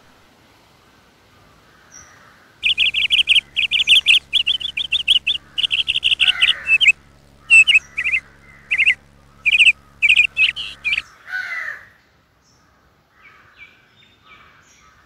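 Small birds chirping in quick, repeated trilled bursts from about three seconds in until about eleven seconds, followed by one lower, harsher call.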